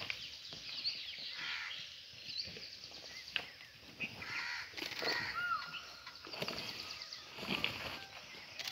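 Several wild birds calling, many short chirps and call notes overlapping, with a few sharp clicks among them.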